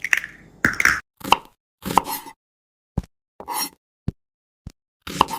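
A series of short cartoon sound effects, about nine pops and knocks, each followed by dead silence, coming roughly every half to three-quarters of a second.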